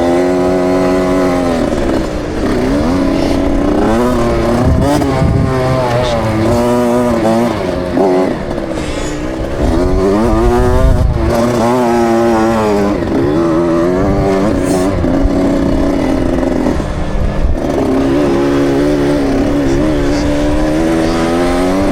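KTM 65 SX motocross bike's single-cylinder two-stroke engine being ridden hard, its revs rising and falling over and over.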